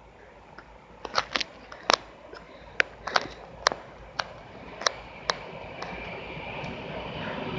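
About a dozen sharp, irregular clicks over a few seconds, then a rising rumble with a faint steady whine as a train approaches.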